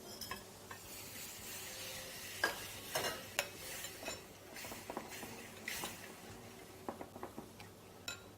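Spoon stirring tomato sauce in a pan, with irregular light clinks and scrapes of the utensil against the pan over a faint sizzle.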